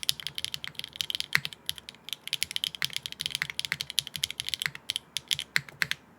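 Fast typing on an HMX Hyacinth V2U mechanical keyboard with a nylon plate, no foam and GMK keycaps, a rapid run of key clacks that stops about six seconds in.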